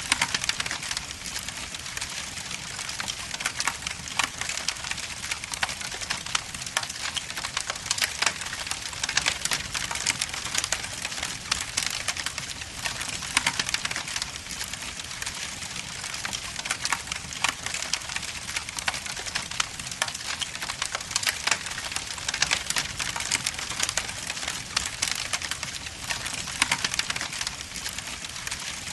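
Wood logs burning in a fireplace, crackling and popping continuously over a steady hiss, with many small sharp snaps packed close together.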